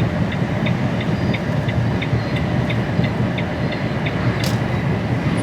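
Steady road and engine rumble inside the cab of an HGV lorry at motorway speed, with the indicator ticking about three times a second until about three seconds in, then a single sharp click.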